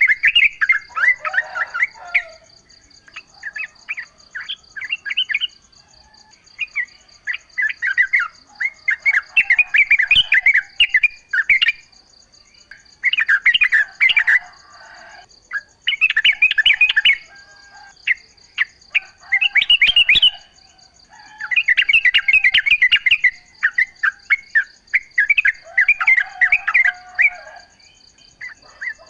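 Yellow-vented bulbul (trucukan) singing its quick, bubbly chattering phrases, repeated every couple of seconds with short pauses between them, over a steady high pulsing trill of insects.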